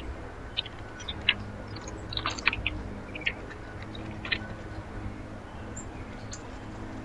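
Short, scattered chips and clicks from birds at a backyard feeder, in clusters at about one, two and four seconds in, over a low steady hum.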